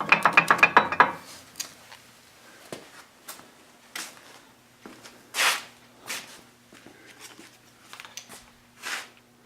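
Cast-iron feed gears of a Fay & Egan 560 planer being rocked by hand: a quick run of metal clicks and clinks in the first second, then scattered single clicks and a few short rubbing sounds. The clinking is the free play (backlash) in the gears.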